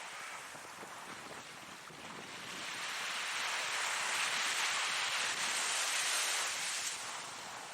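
Ocean surf: a wave builds about two seconds in, holds for a few seconds, and falls away near the end.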